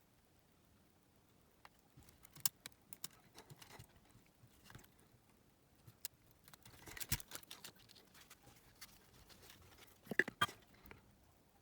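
Small, scattered clicks and taps of a cassette player's plastic parts and mechanism being handled with small tools during disassembly, with a short cluster about midway and two sharper clicks near the end.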